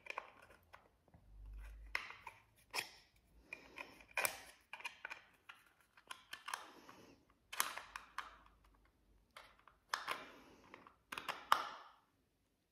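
Close mouth sounds of someone biting into and chewing a chocolate-coated snack cake: irregular short clicks and smacks.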